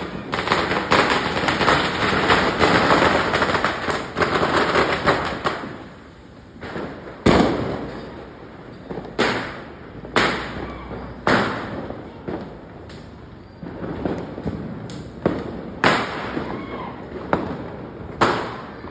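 Diwali firecrackers going off. For the first five seconds there is a dense run of rapid crackling pops, then single sharp bangs about every second or so, each trailing off in a short echo.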